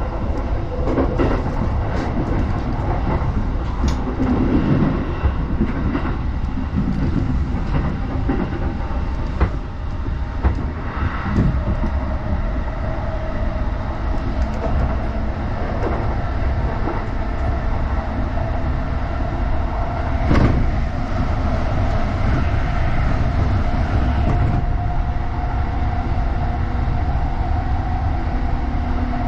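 Running noise of a Chuo Line E233-series electric commuter train, heard from inside the car: a steady rumble broken by a few sharp clicks of the wheels over rail joints. A thin steady whine strengthens in the second half.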